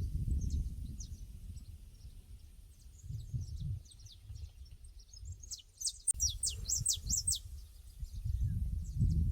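Pasture ambience: small birds chirping in short high notes throughout, with a burst of louder, quick downward chirps from about five and a half to seven and a half seconds in, over a low rumble that swells and fades.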